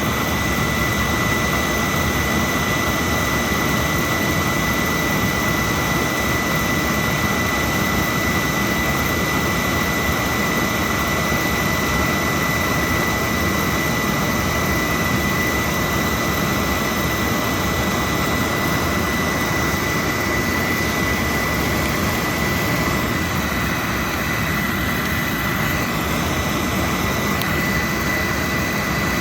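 Oil boiler burner firing steadily, with the even rush of its blower and flame and a thin steady high whine on top, while its air setting is being tuned to lower the CO.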